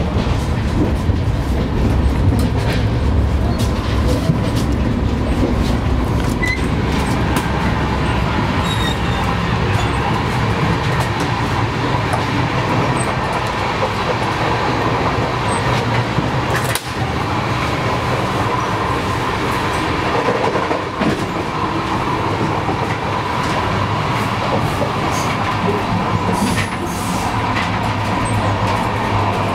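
Running noise of a moving LHB passenger coach heard from inside: a steady rumble of wheels on the track with scattered clicks and a faint steady whine.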